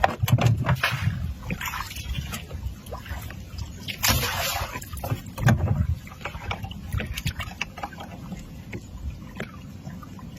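Small boat on the water: uneven low rumble with water sloshing, scattered knocks and clicks, and a louder rushing splash about four seconds in.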